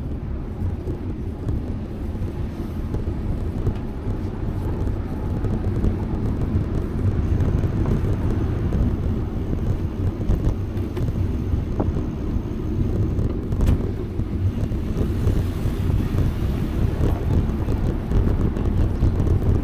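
Steady low rumble of wind buffeting the microphone of a camera riding on a moving bicycle, mixed with road noise, with a couple of faint ticks.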